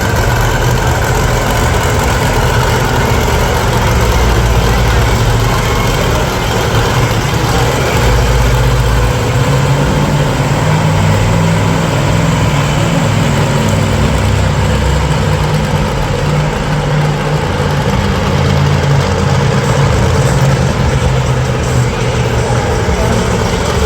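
Monster truck engine running loudly and steadily, its low note shifting higher about ten seconds in.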